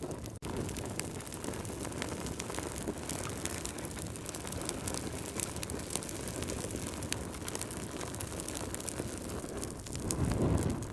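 Wood fire burning, a steady low rumble dotted with frequent small crackles and pops. The sound cuts out for an instant about half a second in, and the rumble swells briefly near the end.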